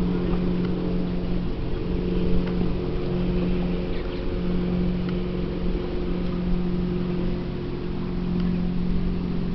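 Steady low drone of a lake freighter's engines passing on the river: a constant hum with a rumble underneath, unchanging throughout.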